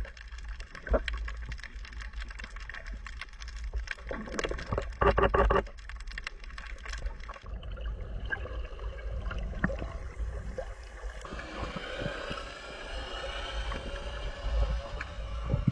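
Water sloshing and gurgling, with many small irregular splashes.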